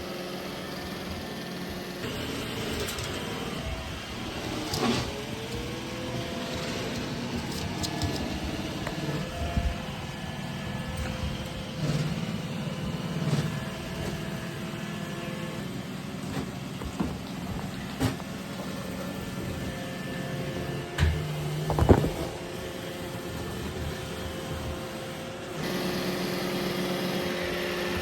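Roomba i3 robot vacuum running with a steady motor whir, broken by scattered knocks and clatters. The loudest cluster of knocks comes about three quarters of the way through.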